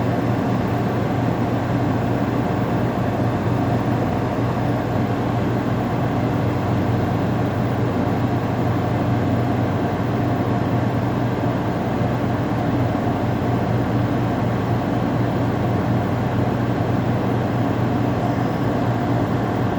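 LG 8,000 BTU window air conditioner running steadily, its fan blowing over a low, even compressor hum.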